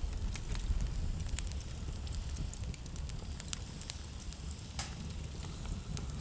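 Wood fire burning in a fireplace: a steady low rumble of flames with irregular sharp crackles and pops, a louder pop a little before five seconds in.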